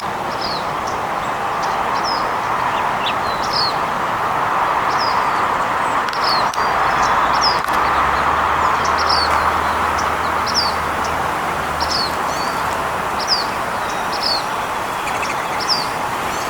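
A small bird repeating a short, high, down-slurred chip note about once or twice a second, over a steady background rush of noise.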